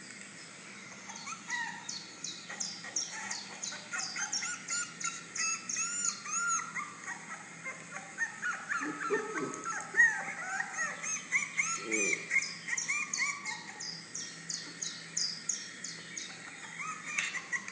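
Puppies squealing and yelping over a laptop's speakers: many short, high-pitched cries in quick succession, with a few lower cries about nine and twelve seconds in.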